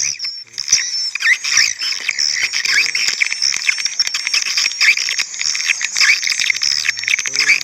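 A recording of swiftlet calls playing back: dense, rapid chirps and twitters, a lure call mixed with a roosting sound into one track.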